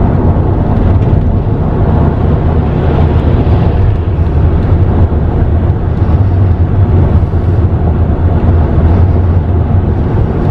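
Steady low rumble of a car travelling on a freeway, engine and tyre noise heard from inside the cabin.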